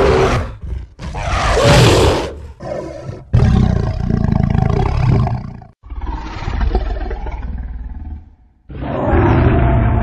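Tyrannosaurus rex roar sound effects: several deep roars in quick succession with brief breaks between them, the longest lasting two to three seconds.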